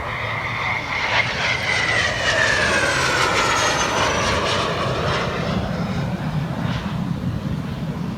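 Aircraft flying past at an airshow, its engine whine falling steadily in pitch as it passes, then trailing off into a low rumble.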